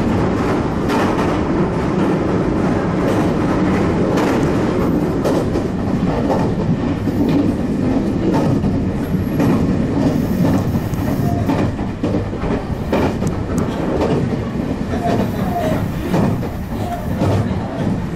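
A Meitetsu limited express train running at speed, heard from inside the passenger car: a steady rumble with frequent sharp clacks of the wheels over the rails.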